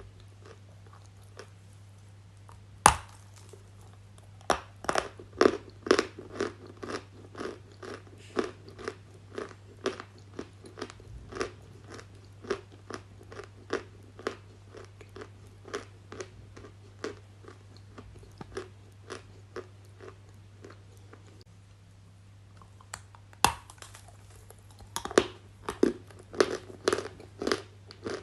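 Close-miked biting and chewing of something hard and crunchy: a long run of sharp crunches, the loudest about three seconds in. The crunching pauses for a couple of seconds past the middle, then comes back thick and fast near the end.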